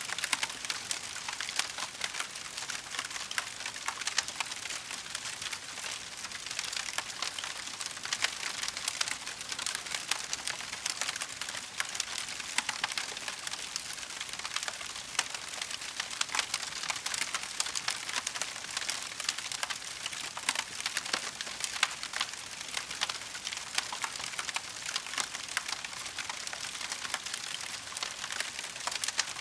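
Wood fire in a fireplace crackling steadily, a dense stream of small pops and snaps with no pause.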